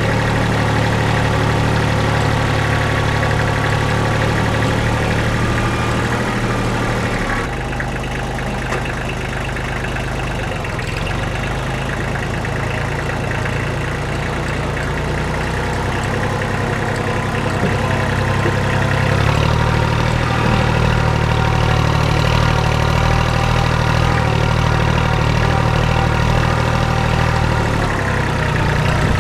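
Kubota L235 tractor's glow-plug diesel engine running steadily, its note dropping about seven seconds in and coming back up about twenty seconds in.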